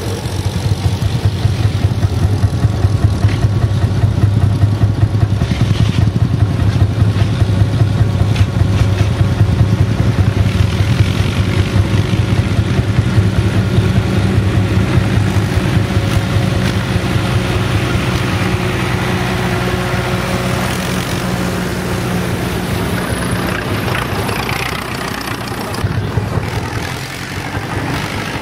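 Old tractor engine running steadily with an even, unchanging note, easing off slightly near the end.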